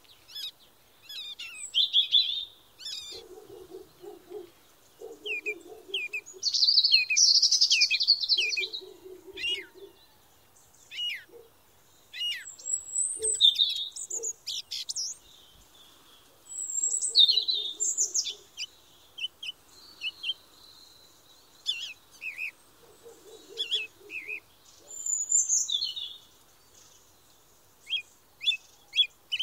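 Several songbirds chirping and singing in short, varied phrases, with a lower, buzzy call from another bird coming in briefly several times.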